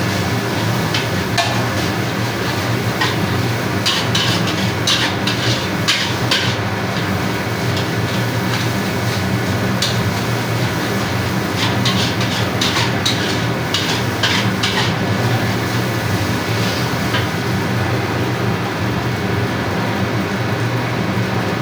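Metal spatula scraping and clanking against a wok while fried rice is stir-fried, with clusters of quick strikes a few seconds in and again around the middle. Underneath runs a steady low rumble.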